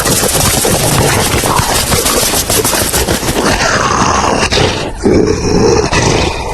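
A large animal roaring and growling, loud and harsh, with crackling noise throughout.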